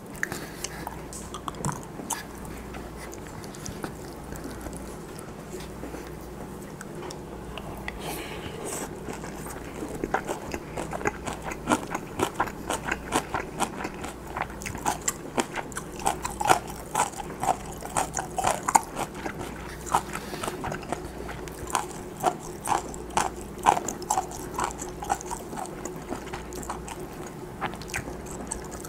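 Close-miked chewing and wet mouth clicks of a person eating a mouthful of rice with stir-fried kimchi. The clicks are sparse at first and come thick and fast from about ten seconds in.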